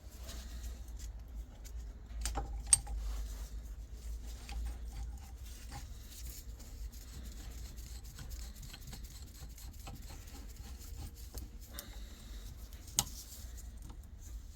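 Metal gearbox parts and hand tools being handled on a workbench: light rubbing and rattling, with two sharp metallic clicks, one near the start and one near the end.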